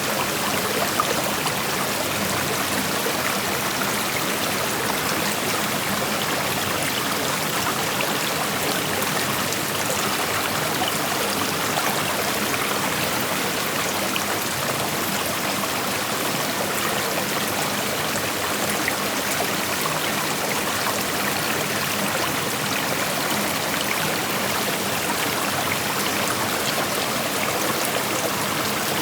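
A shallow creek flowing over rocks: a steady, even rushing of water with small splashes and trickles, unchanging throughout.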